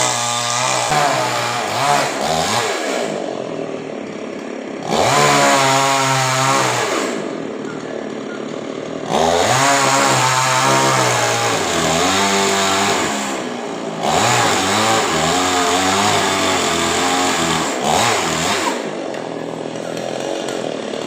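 Chainsaw engine revving up in four long bursts, its pitch rising and sagging within each, and dropping back to a lower steady run between them.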